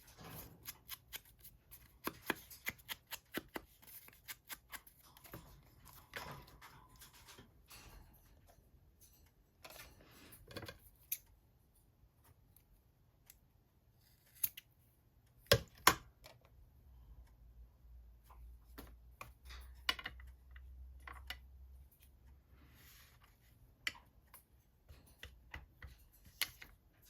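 Scissors snipping paper in a quick run of cuts, then paper being handled with scattered clicks and rustles. Two sharp, loud clicks come about halfway through.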